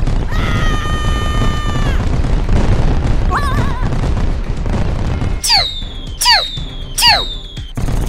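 Cartoon laser-gun sound effects: three quick falling "pew" zaps in the second half, after a held electronic tone near the start, over a low rumbling blast noise and background music.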